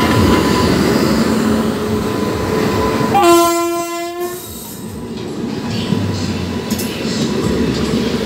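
Passenger trains rumbling and clattering past on the rails close by. About three seconds in, an electric locomotive sounds its horn in one blast of about a second and a half.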